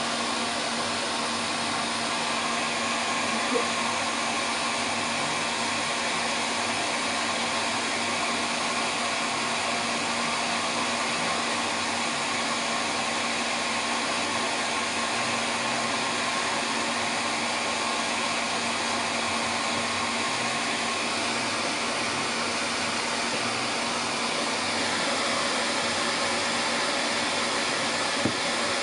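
Hand-held hair dryer blowing steadily on a long-haired cat's coat: a continuous even rush of air with a faint motor hum, the same level throughout.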